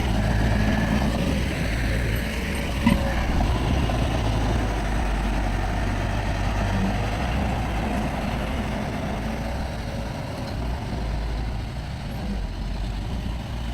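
Heavy diesel earthmoving machinery running steadily at a low rumble, with one sharp knock about three seconds in.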